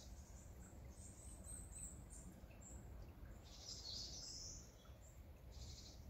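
Small forest birds chirping faintly and high-pitched, with a brief flurry of chirps about three and a half seconds in and another near the end, over a faint steady background hiss.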